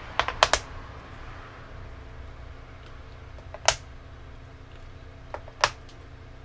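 Hard cast-resin dominoes clicking and tapping as they are popped out of the mold and set down: a quick cluster of about four clicks at the start, a single click midway, and two more near the end. A steady low hum runs underneath.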